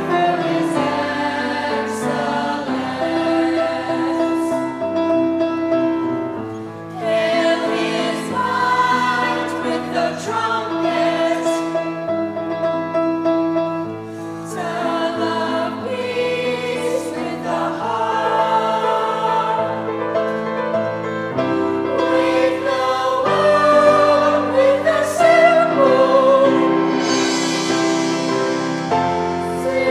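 Choir singing a song with instrumental accompaniment, with short lulls between phrases about seven and fourteen seconds in.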